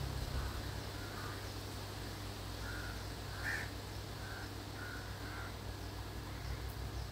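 A bird giving short calls, about six of them spaced over a few seconds, the loudest about halfway through, over a low steady rumble.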